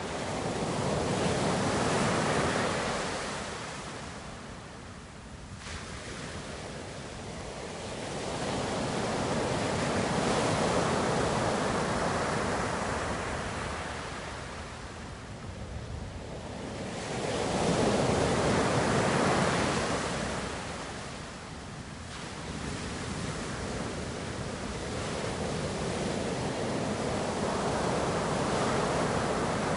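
Ocean waves breaking and washing ashore, the surf swelling and fading about every eight to nine seconds.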